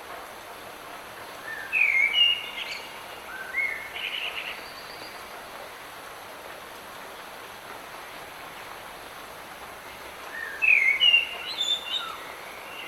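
Light rain hissing steadily while a songbird sings a short phrase of clear whistled notes, stepping up and down in pitch; the same phrase comes twice, about nine seconds apart.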